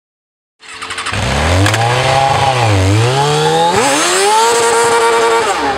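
Stunt sport-bike engine revving, starting about half a second in: the pitch climbs, dips, climbs again and holds high, then falls away near the end.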